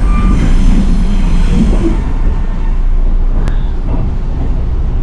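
Steady rumble of a moving Chicago and North Western gallery passenger car, its wheels running on the rails, heard from inside the car. A faint high squeal sounds in the first two seconds, and there is a single sharp click about three and a half seconds in.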